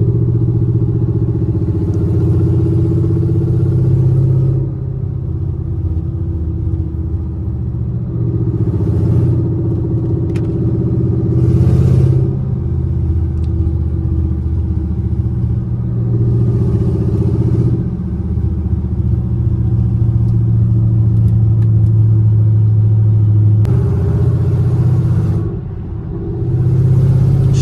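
Camaro SS V8 running without mufflers while cruising at low revs, a loud, deep exhaust drone. The note steps up and down every few seconds as the throttle changes, easing off briefly near the end.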